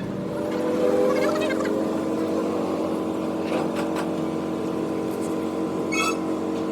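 A motor running steadily with an even hum, with a few light knocks near the middle.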